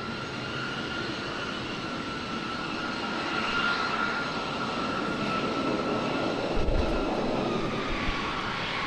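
Jet airliner's engines passing: a steady high whine that drops slowly in pitch over a rushing roar that swells through the middle and eases toward the end, with a brief low thump about two-thirds of the way in.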